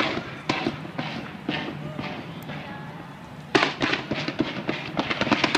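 Fireworks going off: bangs about half a second apart at first, then a quick, dense run of bursts starting about three and a half seconds in.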